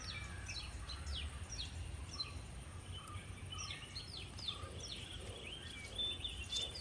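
Birds chirping in many short, quick falling notes, over a steady low background rumble.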